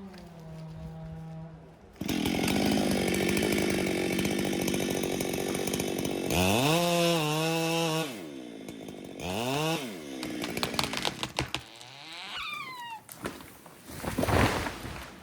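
Two-stroke chainsaw idling, then opened to full throttle about two seconds in and held there for several seconds, its engine pitch sagging and recovering. After that it drops back and is revved in shorter bursts.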